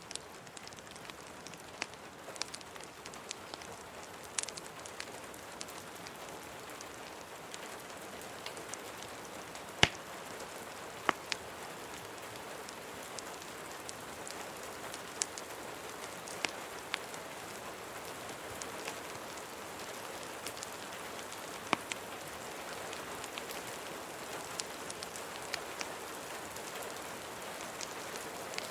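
Steady rain hiss with scattered sharp crackles and pops from a wood fire, the loudest about ten and eleven seconds in.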